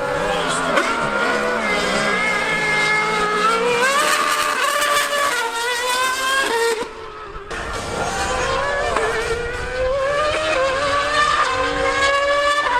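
High-revving racing engines of a Formula One car and a Yamaha R1M superbike, several pitches climbing together as they accelerate. The sound drops away briefly about seven seconds in, then climbs again.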